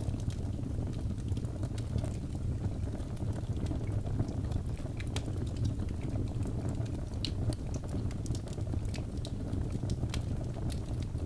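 Wood fire crackling in a fireplace: frequent sharp irregular pops and snaps over a steady low rumble of burning.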